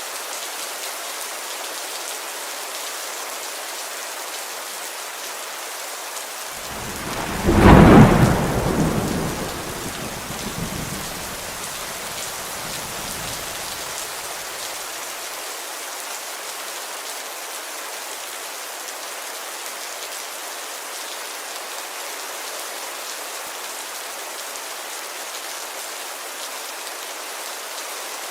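Steady rain on a window, with a loud clap of thunder about seven seconds in that rolls on and fades away over the next several seconds.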